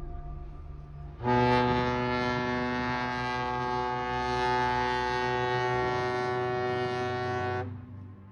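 Ship's horn sounding one long blast: a steady low tone, rich in overtones, lasting about six seconds.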